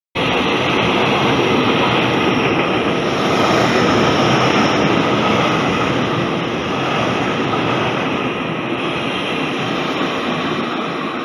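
Taiwan Railway Puyuma Express tilting electric train (TEMU2000) running past close by: a loud, steady rush of train noise, loudest about four seconds in, then slowly fading.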